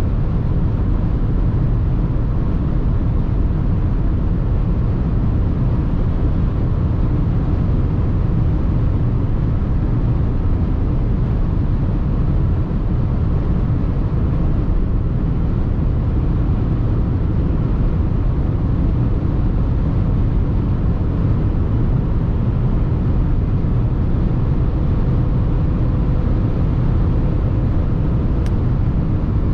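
Mercedes GLA 220d driving along, with the steady mix of tyre and wind noise and the four-cylinder diesel running beneath it, unchanging throughout. A single faint click comes near the end.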